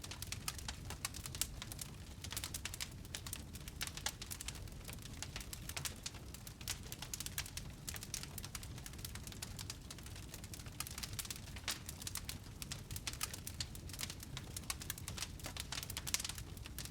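Wood fire burning in a fireplace, crackling and popping continuously in a dense scatter of sharp snaps over a low, steady rumble of flames.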